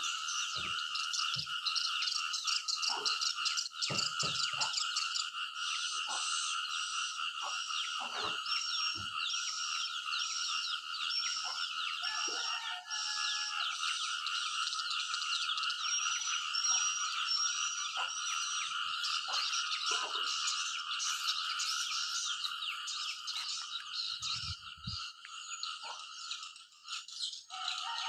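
Dense chorus of frogs calling, a steady unbroken trilling, with a run of short high chirps repeating about every half second through the middle and a few scattered low knocks.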